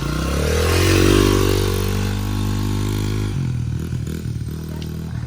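Dirt bike engine revving up as the rider sets off, climbing in pitch over the first second, holding a steady note for a couple of seconds, then dropping and turning uneven near the end.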